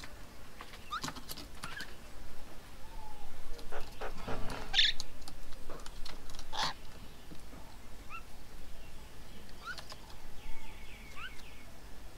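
Garden birds calling: scattered short chirps and harsher calls, loudest a few seconds in, with a quick run of repeated notes about ten seconds in.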